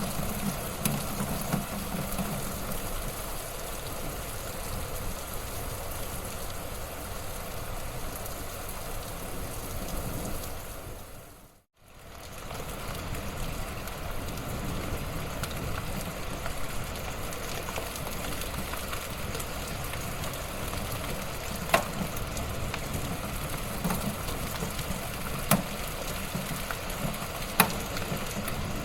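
Wood fire crackling in a fireplace: a steady hiss with scattered crackles and a few sharper pops in the second half. About twelve seconds in, it fades out to near silence for a moment and fades back up.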